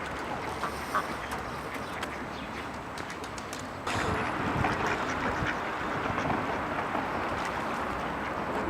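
The Pisuerga river running high after heavy rain, its water rushing steadily, with ducks quacking over it. The rush gets louder about four seconds in.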